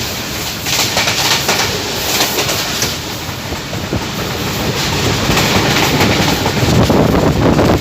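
Passenger train running at speed: a steady rumble of wheels on rails with irregular clatter over rail joints, plus rushing air, growing somewhat louder in the second half.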